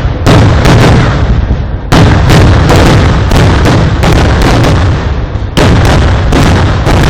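Fireworks display: a rapid barrage of loud bangs, about three a second for most of the stretch, each followed by a rumbling echo that runs into the next.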